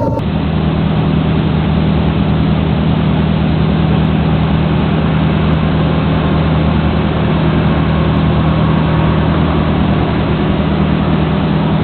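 A motor engine running steadily with a constant low hum, under a noisy rushing background.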